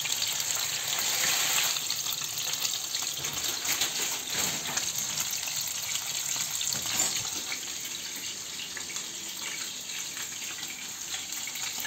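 Cutlets frying in hot oil in a frying pan: a steady sizzle with fine crackles.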